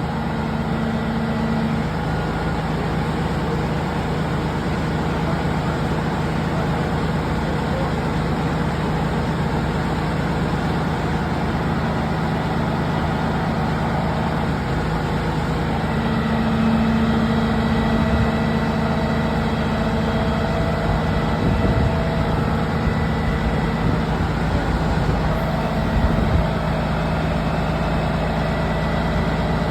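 Heavy truck engine running steadily, a constant low drone.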